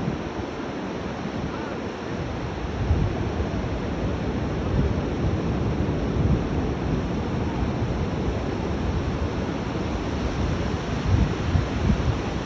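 Rough sea surf breaking steadily on a beach, with wind gusting over the microphone.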